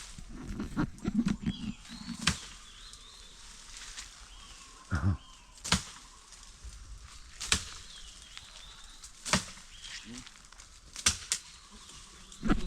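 About a dozen sharp knocks and snaps at irregular intervals, with faint bird chirps in the background.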